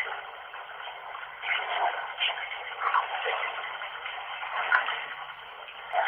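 Bath tap running into the tub, a steady hiss of water with a few brief louder spots, recorded thin and narrow through a flip phone's microphone.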